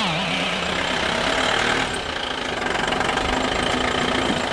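Engine sound running steadily with a fast pulsing rumble, wavering in pitch for the first moment before it settles.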